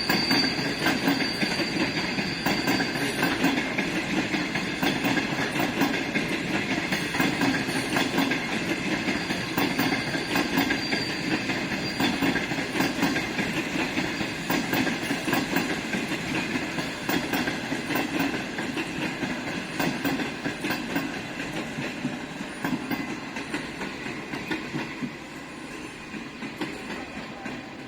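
Passenger train rolling into a station: steady wheel rumble with wheels clicking over rail joints and a high squeal from the wheels. It grows gradually quieter toward the end as the train slows and passes.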